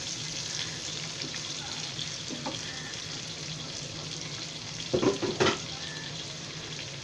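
Fish curry sizzling in a pan over a low flame: a steady frying hiss. About five seconds in, two brief louder sounds stand out over it.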